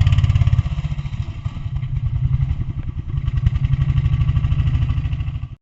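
Small 8 hp gasoline go-kart engine running with a rapid, even firing beat. It eases off about half a second in, picks up again over the next couple of seconds, then cuts off suddenly at the end.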